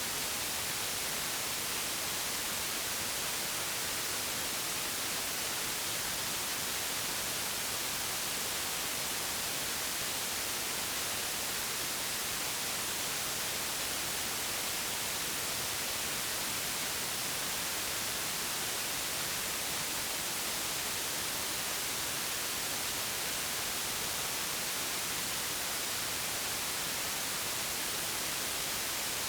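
Steady white noise: an even, unbroken hiss, brightest in the upper range, with no change in level.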